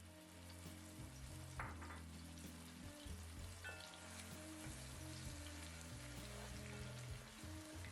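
Thai red curry paste frying in hot oil in a pan: a soft, steady sizzle.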